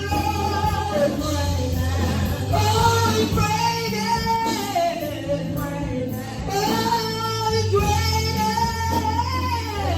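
Gospel music: a woman's voice singing long, sliding held notes over a steady instrumental backing.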